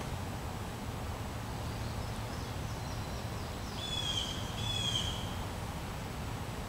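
A bird calling twice in the middle: two clear high notes about half a second apart, with fainter bird notes just before, over a steady low rumble.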